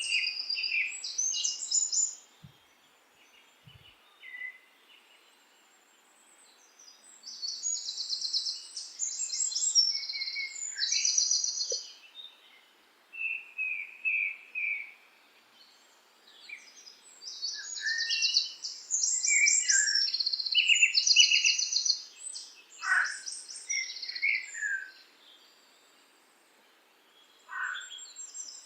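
Songbirds singing: bursts of rapid high trills and chirps separated by short quiet spells, with a couple of quick downward-sliding calls near the end.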